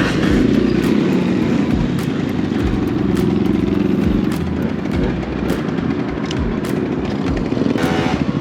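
Small scooter engine running steadily while riding, with road and wind noise and a few sharp knocks.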